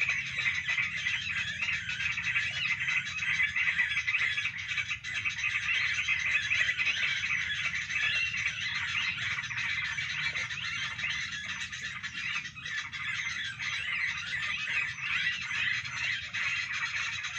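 Dense, continuous chattering of many small birds calling over one another, with a steady low hum underneath.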